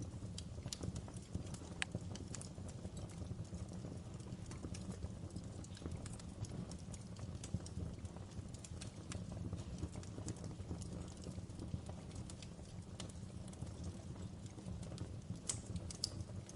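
Wood fire crackling in a fireplace: irregular sharp snaps and pops, a few louder ones, over a steady low rumble.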